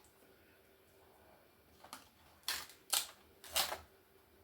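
Short plastic clicks and knocks from a mid-1990s laptop being taken apart by hand, a handful in the second half.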